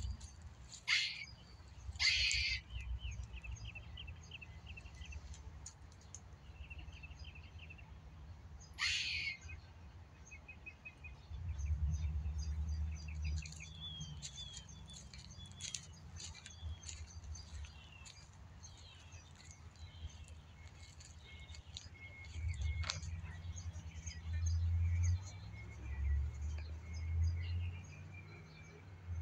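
Wild birds calling in woodland. There are a few sharp downward-sweeping calls, a fast high trill in the first several seconds, and many short chirps later on, over a low rumble that comes and goes.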